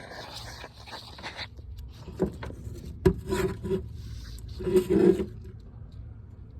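Hand tools and hands scraping and rubbing against metal while fitting a gripping tool onto a broken exhaust manifold stud. There is a sharp click about three seconds in and a few short knocks, the last ones about five seconds in.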